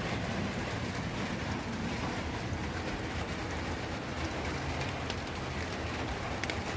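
Steady rain falling, with a low rumble underneath and a few sharper drop hits near the end.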